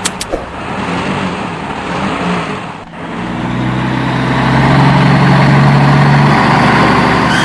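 Motor vehicle engine running, with two sharp clicks at the start. It dips briefly about three seconds in, then picks up and holds a louder, steady note.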